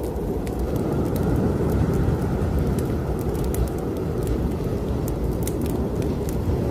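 Snowstorm wind blowing in a steady low rush that swells and eases, with a wood fire in a fireplace crackling and popping in sharp scattered clicks over it.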